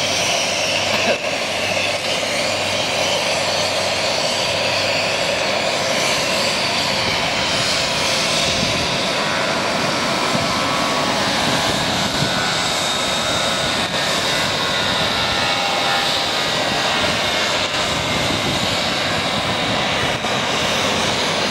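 Douglas DC-8's jet engines running close by, a steady loud rush of jet blast. A thin high whine grows in about eight seconds in and holds.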